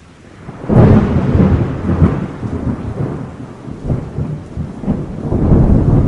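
A thunderclap breaks about a second in and rolls on as a long, uneven, crackling rumble, with rain falling steadily beneath it.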